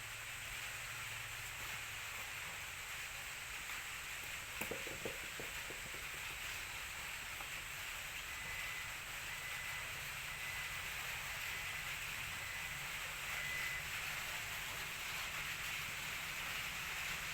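Steady rain hiss. A short cluster of light knocks about five seconds in, and a faint, thin high tone that comes and goes through the middle.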